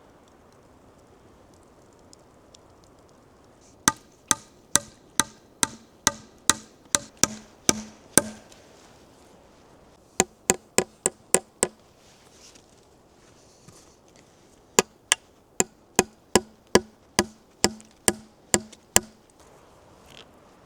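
Hand tool striking wood in three runs of sharp, evenly paced blows: about eleven, a short quicker run of six, then about eleven more, each knock ringing briefly.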